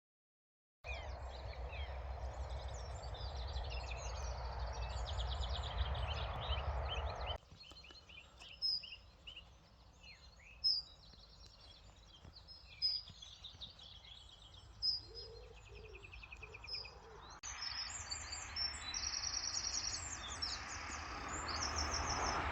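Wild birds chirping and singing, many short calls, over a steady outdoor background rush that drops away abruptly about seven seconds in and returns near the end.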